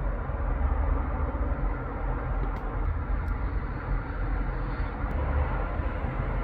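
Road traffic: the steady low rumble of engines and tyres from passing vehicles, with a few faint clicks.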